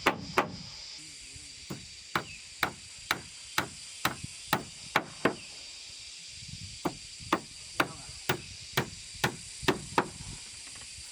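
A hand tool striking wood in a steady rhythm, about two blows a second, as in hammering or chopping timber for a wooden house. The blows pause for about a second and a half midway, then start again.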